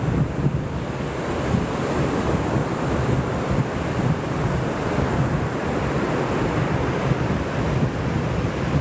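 Ocean surf on a beach with wind blowing across the microphone: a steady rushing noise with gusty low rumble.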